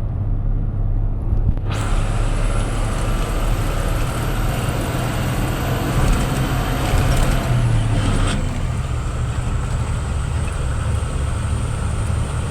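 Motor vehicle running with a steady low engine and road rumble. About two seconds in, a louder broad hiss with a thin high whine joins it and fades back after about eight seconds.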